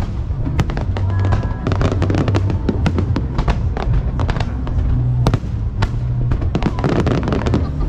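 Aerial fireworks going off in quick succession: dense crackling with sharp bangs over a continuous low rumble of booms, with music playing underneath.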